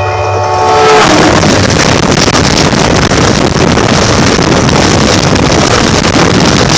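A train horn sounding into the first second, its pitch dropping as the locomotive passes over, then the loud, steady rush and clatter of the train running directly over a camera lying on the track.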